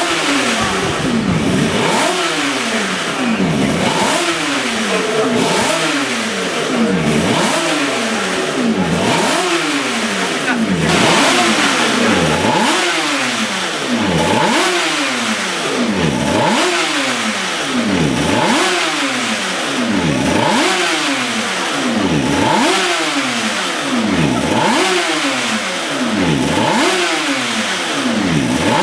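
Yamaha YZR500 two-stroke racing motorcycle engine revved again and again through its exhaust, the pitch rising sharply and dropping back about once every one and a half to two seconds.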